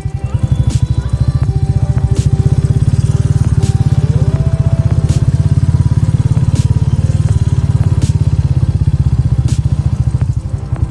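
Motorcycle engine running steadily under way, with a rapid low pulsing throughout. Background music plays over it.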